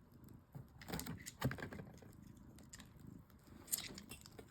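Handling sounds while unboxing specimens: a few sharp knocks and clicks, the loudest about a second and a half in and another near the end, with soft rustling between.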